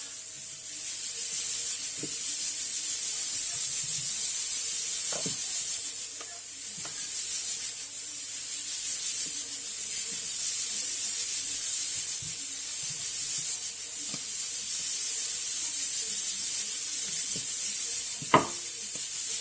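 A steady high hiss, like sizzling, with a few faint light knocks and one sharp click near the end.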